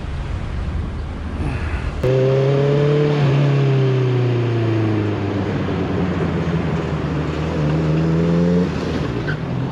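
Low wind and road rumble, then abruptly a motorcycle engine running, its pitch falling slowly as it slows down. Near the end the pitch rises again before easing off.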